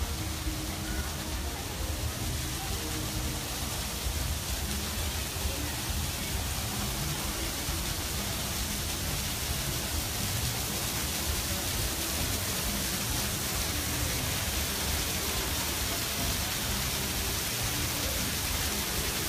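Steady, even rushing noise with a fluttering low rumble underneath.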